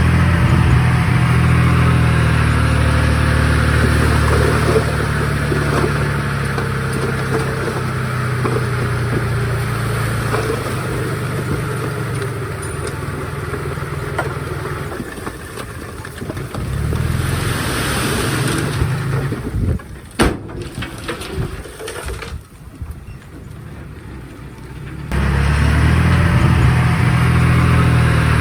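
Komatsu D51PX bulldozer's diesel engine running steadily. It drops to a quieter stretch a little past halfway, with one sharp knock in it, then comes back loud for the last few seconds.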